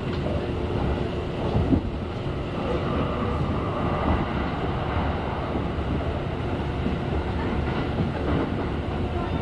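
Kintetsu electric train running, heard from inside the passenger car: a steady rumble of wheels on rail, with a faint steady tone running through it.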